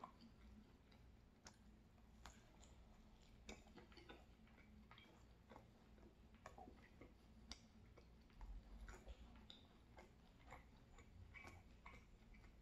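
Very quiet chewing of a mouthful of pizza, the mouth closed: faint, irregular soft mouth clicks, about one or two a second.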